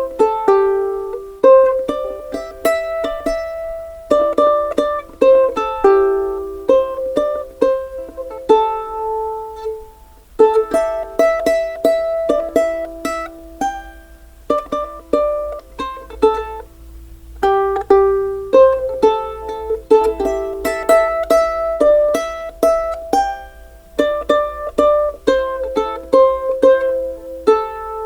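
Background music: a plucked-string instrument, sounding like a ukulele, playing a melody of short decaying notes.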